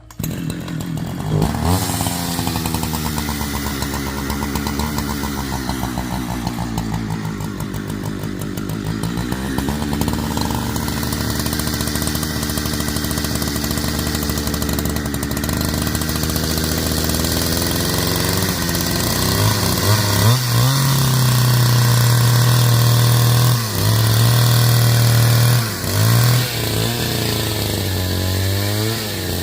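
Chainsaw cutting wood, its engine speed rising and falling as it works. Near the end the pitch drops and recovers several times.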